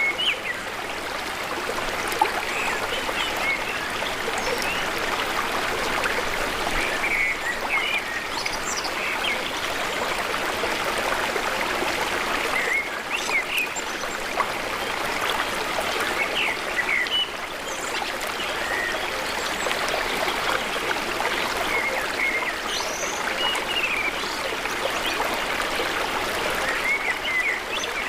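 Small birds chirping in short, frequent calls over a steady rushing noise like running water.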